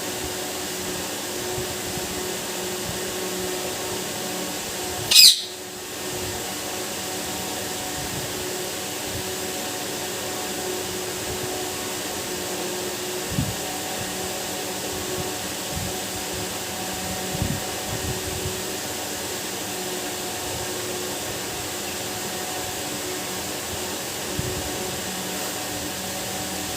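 A parrot gives one brief, shrill, wavering screech about five seconds in, over a steady mechanical hum like a fan's. A few faint knocks come later.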